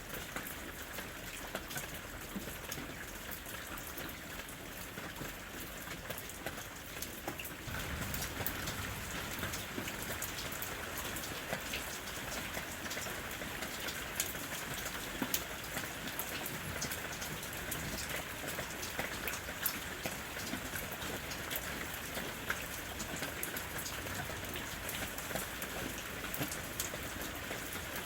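Steady rain falling, an even hiss with many separate drop ticks; it grows a little heavier about seven seconds in.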